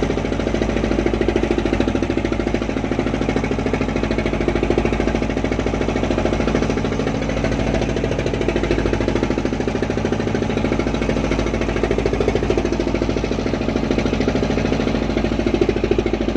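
Fishing boat's engine running steadily with a fast, even pulsing beat.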